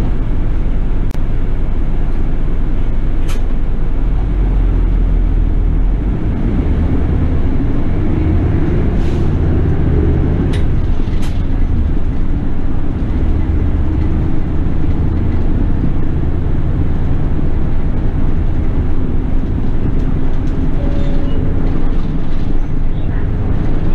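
City bus running, heard from inside the cabin: steady engine and road noise with a few sharp clicks, mostly in the first half.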